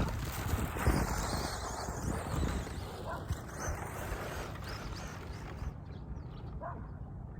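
Team Associated SC10 radio-controlled short course truck driving hard on loose dirt, its motor and tyres hissing as they churn the surface; the hiss cuts off about six seconds in, leaving a low rumble.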